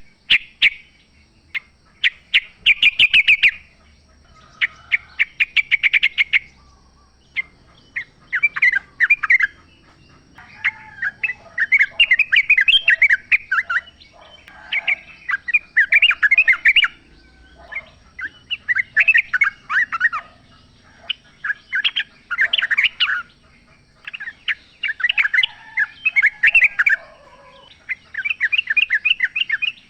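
Yellow-vented bulbul singing loudly: phrase after phrase of rapid, bubbling chattering notes, each burst lasting a second or two with short pauses between, with a faint steady high hiss underneath.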